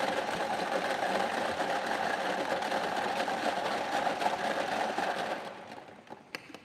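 Prize-draw machine running after its button is pressed, a fast continuous rattle of ticks that dies away about five and a half seconds in, with a few last separate clicks as it settles on a digit.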